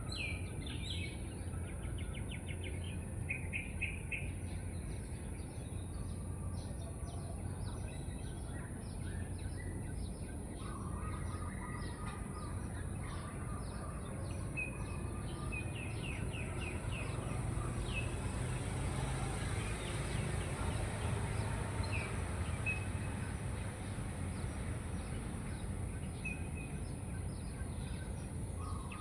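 Birds chirping in short calls and trills, over a steady low background rumble and a constant high-pitched hiss.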